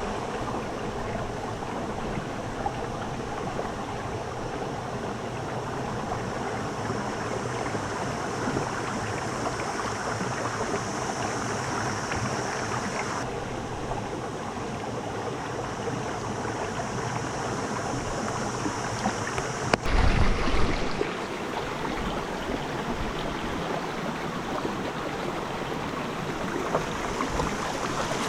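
Steady rushing water, with a brief louder low rumble about twenty seconds in.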